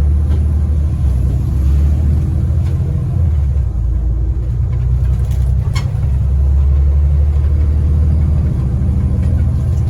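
Scania N94UD OmniDekka double-decker bus's diesel engine and drivetrain rumbling under way, heard from inside the passenger cabin. The engine note eases about three seconds in and builds again a couple of seconds later, with a brief sharp click near the middle.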